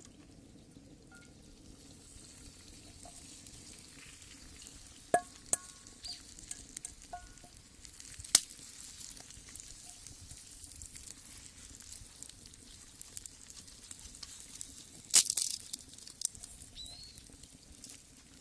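Food sizzling steadily in a skillet over a wood fire, with a few sharp clicks and taps; the loudest comes about fifteen seconds in.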